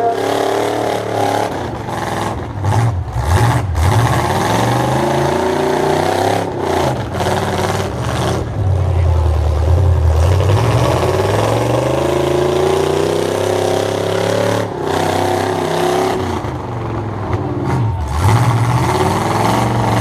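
Demolition-derby stock trucks' engines revving up and down hard as they accelerate and back off, with a few sharp bangs of the trucks hitting each other.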